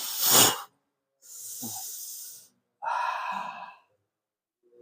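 A person breathing hard: a loud, forceful breath that ends about half a second in, then two longer breaths, the last with a little voice in it.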